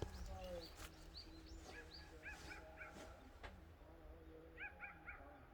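Faint, short high-pitched animal calls, each rising quickly, coming in quick groups of two or three over a low steady rumble.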